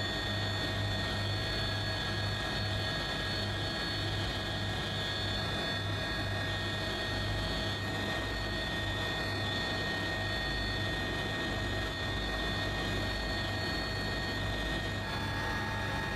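Steady drone of an aircraft engine, with several constant tones over a pulsing low hum; the tone shifts slightly about fifteen seconds in.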